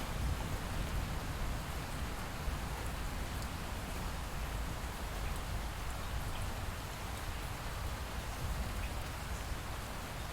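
Light rain falling steadily, with a low rumble underneath and a few faint drop ticks.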